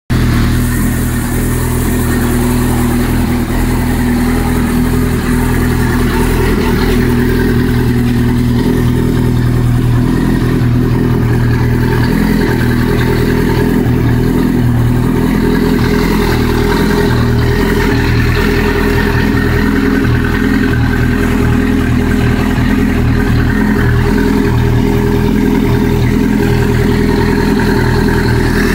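Yamaha R6 inline-four engine idling steadily through its custom exhaust.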